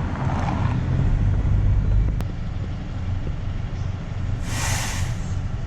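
Steady low rumble of a car on the road, heard from the vehicle, with a brief hiss about four and a half seconds in.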